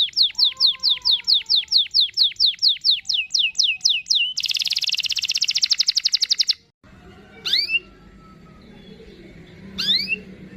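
Domestic canary singing: a run of quick, falling whistled notes, about five a second, runs into a fast buzzy trill (the long roll) lasting about two seconds. After a short pause come two brief rising calls.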